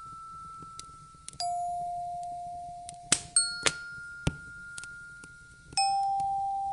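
Wood fire crackling, with sharp pops about three seconds in, under slow single bell-like chime notes, each struck about two seconds apart and ringing out as it fades.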